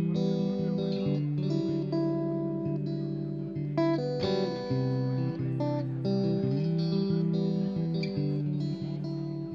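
Guitar picking a repeating pattern of single notes over a sustained low note, in the instrumental part of a folk song played live.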